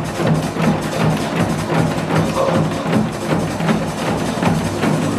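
Janggu drums struck in a quick, steady rhythm, playing along with a recorded backing song.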